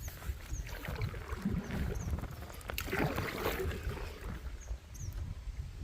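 Paddles dipping and splashing as a canoe is paddled along a river, over a steady low rumble of wind on the microphone. A few short, high, falling chirps sound now and then.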